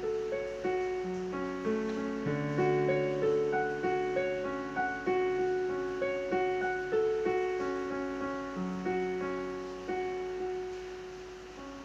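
Slow piano music: single notes struck one after another over lower held notes, each ringing out and fading.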